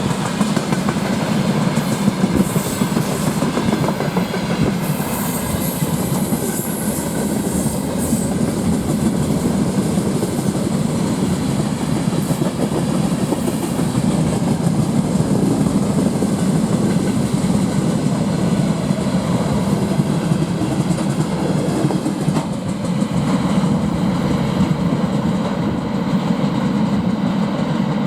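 Freight train wagons rolling past at speed in a steady, loud rumble of wheels on rails, clattering over the joints. A faint high wheel squeal comes and goes between about two and eight seconds in.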